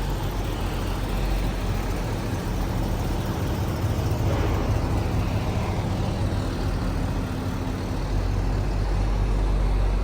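Motor vehicle engine running with a steady low rumble and hum.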